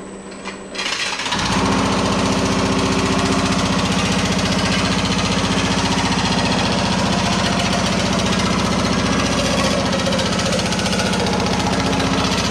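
Pullmax reciprocating sheet-metal machine starting up about a second in, then running steadily with a rapid, even hammering stroke.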